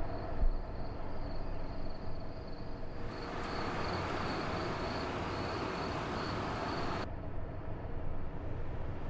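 Outdoor ambience: a steady low rumble under a high, pulsing insect trill, with a louder stretch of hiss from about three seconds in to about seven that starts and stops abruptly.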